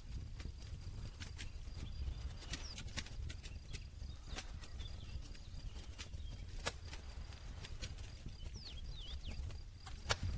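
Campfire burning, with irregular sharp wood crackles and pops over a steady low rumble of the flames.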